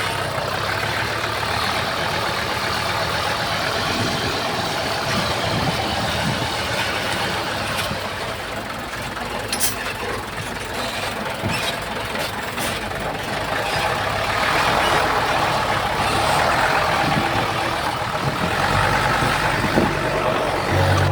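Heavy earthmoving machinery running steadily, with a few sharp knocks and clanks along the way.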